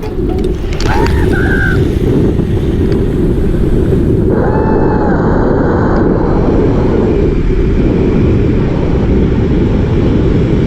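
Loud, steady rush of wind buffeting the microphone during a fast 192-metre freefall drop from a tower.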